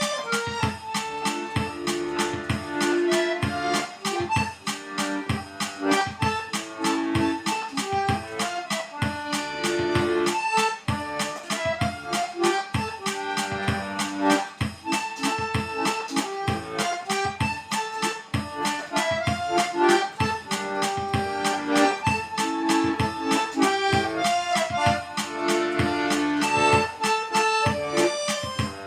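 Accordion playing an instrumental melody over a steady rhythmic accompaniment.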